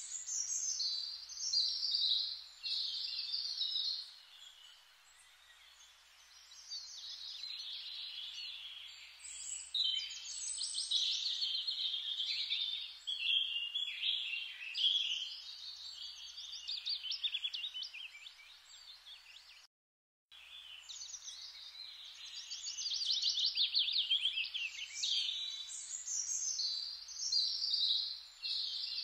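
Songbirds chirping and singing in repeated trilling phrases, with a quieter stretch a few seconds in and a brief total cut-out about two-thirds of the way through.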